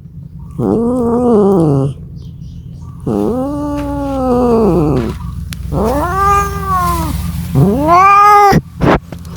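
Domestic cat yowling in four drawn-out calls, each rising then falling in pitch, the caterwaul of a cat calling for a mate.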